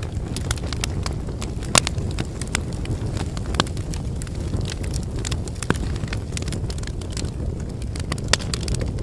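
Wood fire burning with a steady low rumble of flames and irregular sharp pops and crackles of burning firewood, a few louder snaps among them.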